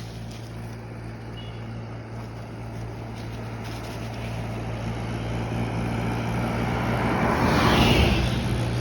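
A road vehicle approaching and passing close by, growing louder over several seconds and peaking near the end, over a steady low engine hum.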